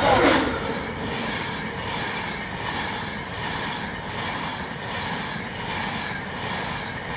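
LNER electric express train passing through the station at speed: a steady rush of wheels and air with an even, repeating beat as the coaches go by.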